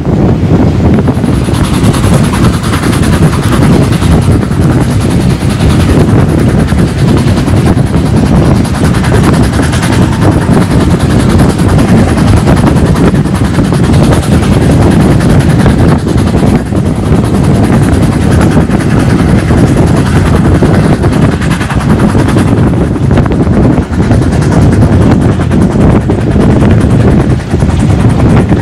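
Heavy wind buffeting the microphone held out of the window of a moving vintage Centoporte passenger carriage, over the steady running noise of the train on the rails. A thin high hiss sets in about a second in.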